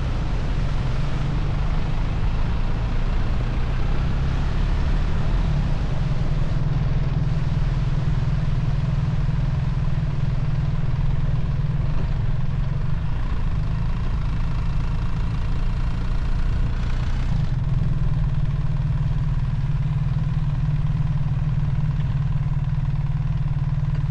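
BMW R1300 GS boxer-twin motorcycle engine running steadily under way, a constant drone with noise from the ride over it; the engine note shifts briefly about seventeen seconds in.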